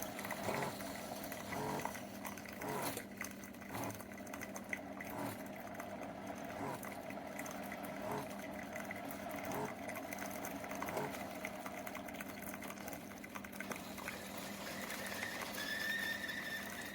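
SiFENE single-serve pod coffee maker brewing: the pump hums steadily while coffee runs into the mug, with faint ticks and gurgles. Near the end a thin high whistling tone comes in as the brew cycle finishes.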